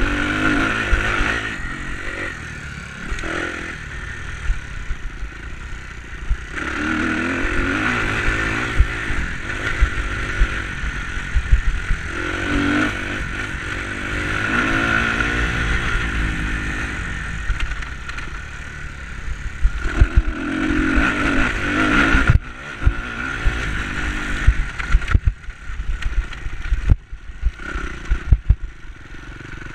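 Enduro dirt bike engine revving up and easing off again and again, in surges a few seconds apart. Frequent low knocks and clatter, heaviest near the end.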